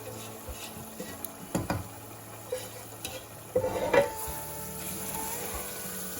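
Food frying in a pan, with a utensil stirring and knocking against it: a few sharp clicks about a second and a half in, and a louder clatter a little past halfway. Soft background music plays underneath.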